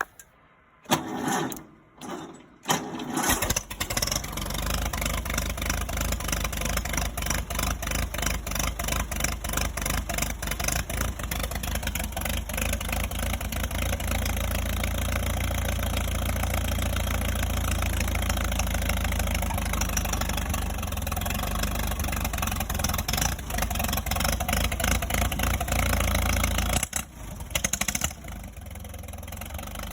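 Allis-Chalmers WD-45 tractor engine cold-started on choke: two short bursts of cranking, then it catches about three seconds in and runs steadily with a rapid, even firing beat. Near the end the low rumble drops away and it runs on more quietly.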